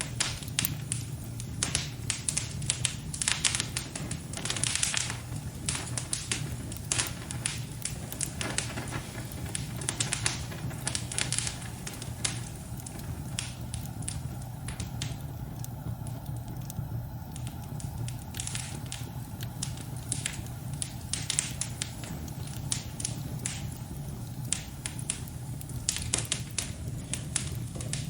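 Wood fire crackling and popping in a fireplace: irregular sharp pops and snaps over a steady low rumble. The crackling thins out for a few seconds around the middle, then picks up again.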